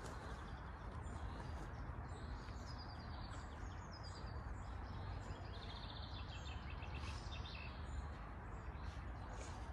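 Small songbirds chirping in the trees, with quick trilled phrases between about three and seven seconds in, over a steady outdoor background hiss and low rumble.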